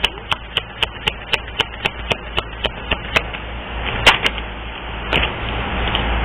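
Sharp clicks in an even run, about four a second, stopping about three seconds in; a few louder knocks follow, then a steady hiss sets in near the end.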